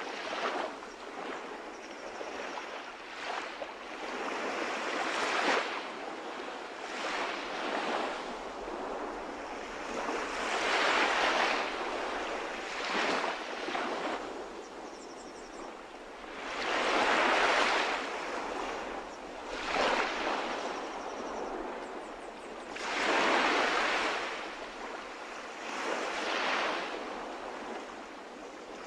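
Sea waves breaking and washing ashore in repeated surges, the larger ones swelling and ebbing about every six seconds.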